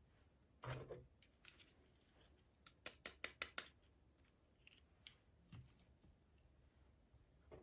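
Small items and packaging being handled during an unboxing, quiet overall. A soft knock with a rustle comes about a second in, then a quick run of about five sharp clicks, like scissors snipping, a few seconds in.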